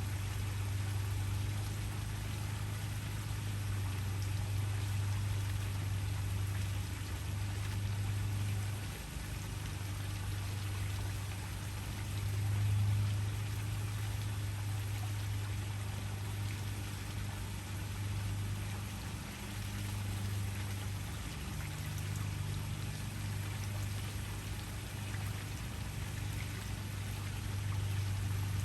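Waterfall: a steady rush of falling water over a deep, continuous low rumble.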